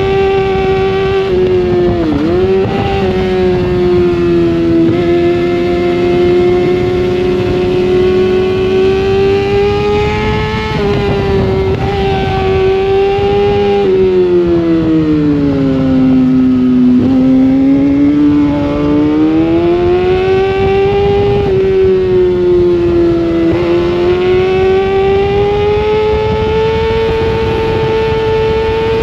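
Sportbike engine at racing pace, heard from on board. Its pitch climbs and falls as the bike runs through the track, with a few quick, sharp dips.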